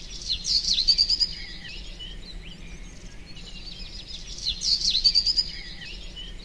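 Small birds chirping and twittering in quick high notes, with two louder bursts of song about four seconds apart.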